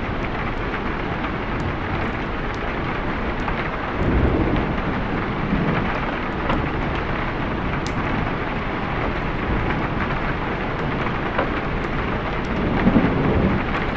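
Steady heavy rain, with low rolls of thunder swelling about four seconds in and again near the end.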